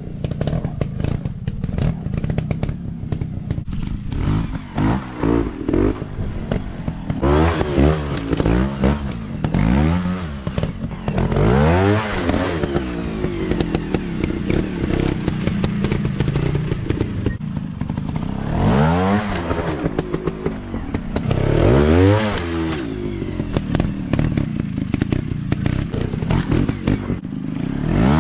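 Dirt bike engines revving up and dropping back in repeated bursts, each rev a quick rise and fall in pitch, with clatter and knocks throughout.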